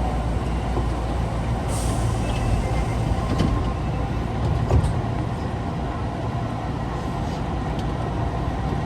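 Osaka Metro 22 series subway car running with its doors just closed, heard from inside: a steady low rumble, with a short hiss about two seconds in and a thump near the middle. The car is one that railfans single out for an unusual running noise.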